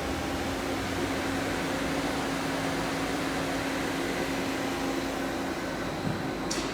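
Okuma Crown 762S CNC lathe standing powered up and idling: a steady mechanical hum with a held low tone. A short sharp click sounds near the end.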